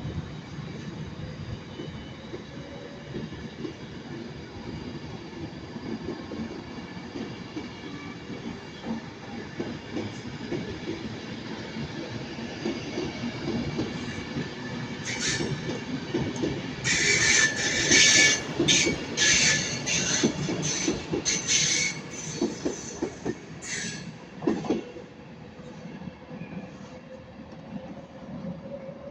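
Avanti West Coast Class 390 Pendolino electric train pulling out, its wheels rumbling and clicking over the rails, with a cluster of sharp high wheel squeals and screeches through the middle.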